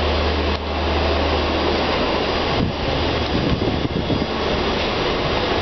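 Sealdah–Puri Duronto Express coaches rolling past along a platform, a loud steady rumbling roar with a strong low hum under it.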